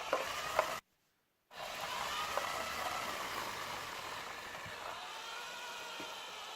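Steady whirring of small electric motors, with two sharp clicks near the start and a brief drop to total silence about a second in.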